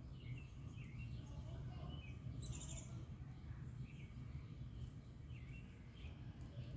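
Small birds chirping, short calls scattered throughout, with a brighter call about two and a half seconds in, over a steady low background rumble.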